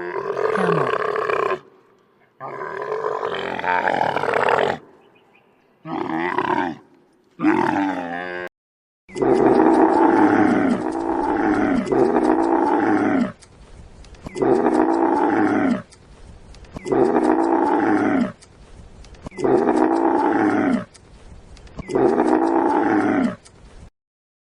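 Camel calling: a string of long, throaty calls, each one to two seconds, with pitch that rises and falls. From about nine seconds in, the calls come over and over, roughly every two and a half seconds.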